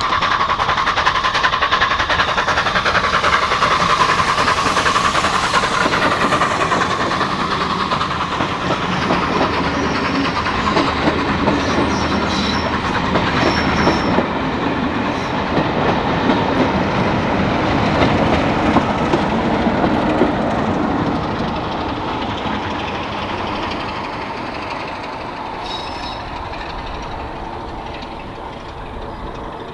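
Heritage passenger train running past, wheels clattering over rail joints, the sound fading away over the last several seconds.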